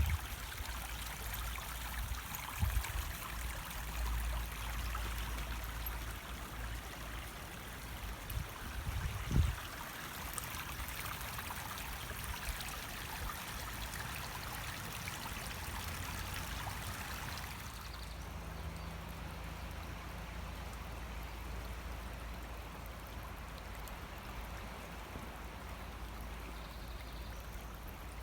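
Running water of a stream, a steady rushing flow, with low rumble underneath and two low thumps in the first ten seconds. The water sound softens about two-thirds of the way through.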